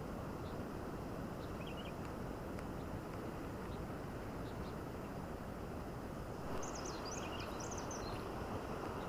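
Steady outdoor night ambience, an even low rushing noise, with short high chirps from small animals: a few about two seconds in and a busier cluster near the end.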